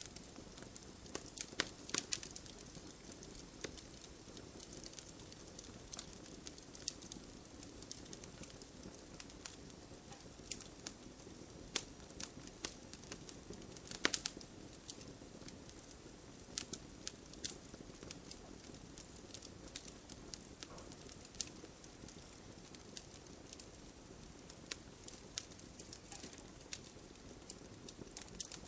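Bonfire crackling and popping in irregular sharp snaps, a couple of them louder, over a steady hiss of falling rain.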